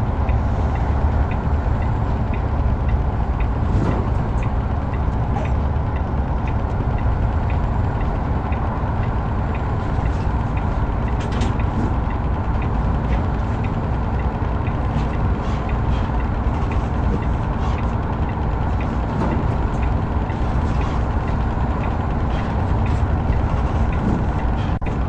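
Heavy truck running at road speed: a steady low rumble of engine and road noise, with faint ticks repeating through it.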